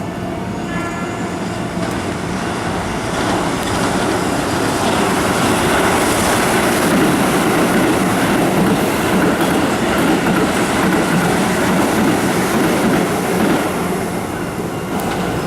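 Keihan electric train running along the tracks past the platform, its wheel-on-rail noise building over the first few seconds, holding loud, then easing off near the end.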